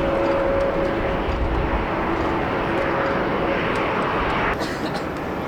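Jet airliner's engines running as it comes in to land: a steady rush carrying two steady engine tones. The sound changes abruptly about four and a half seconds in.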